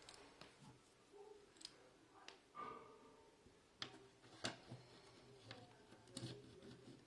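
Near silence with a few faint scattered clicks and taps, from small hard objects being handled, a couple of them louder about four seconds in.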